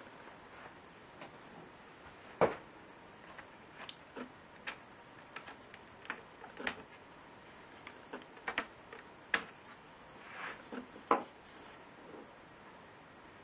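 Irregular small clicks and taps of a Lenovo Y570 laptop's parts and small tools being handled during disassembly. There is a sharper knock about two and a half seconds in and another near eleven seconds.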